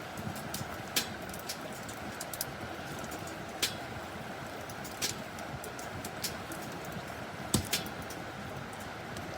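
Wood fire crackling: sharp, irregular pops and cracks over a steady hiss, with two cracks close together near the end.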